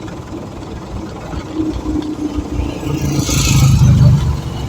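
Truck engine running while on the road, a steady low rumble that grows louder for about a second around three seconds in, together with a short hiss.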